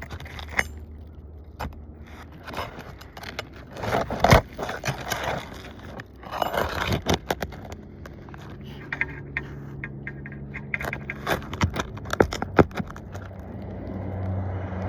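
Scraping and sharp clicks of asphalt roof shingles being handled and worked at, in irregular spells. A steady low engine hum joins about halfway through.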